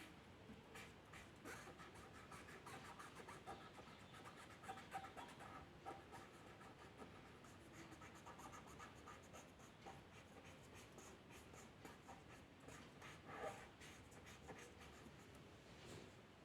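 Faint scratching of a drawing tool on paper, in many quick short strokes.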